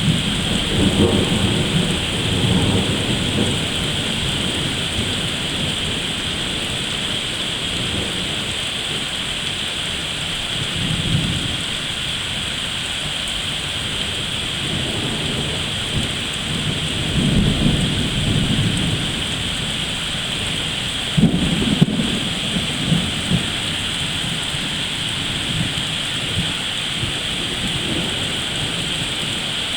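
Heavy thunderstorm: steady rain hissing with thunder rumbling several times, the sharpest claps a little over two-thirds of the way through.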